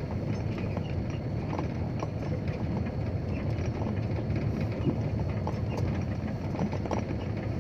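Dump truck's diesel engine running steadily while it drives over a rough dirt track, with a continual clatter of small knocks and rattles from the truck.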